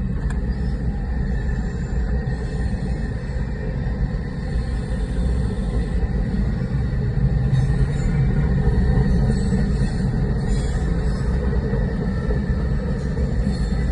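Freight train of hopper cars rolling past a level crossing, a steady rumble of wheels on rail, heard through the windshield from inside a car.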